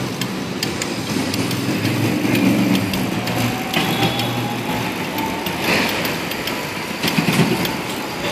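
City street traffic with a motor vehicle's engine running close by, a steady low hum, heard from a moving bicycle, with scattered sharp clicks.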